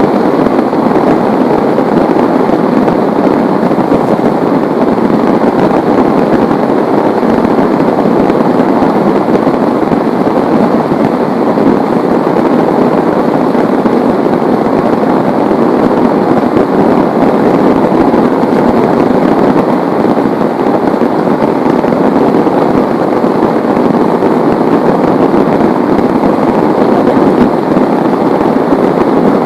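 Heavy rain pouring steadily: a loud, dense, even hiss with no break.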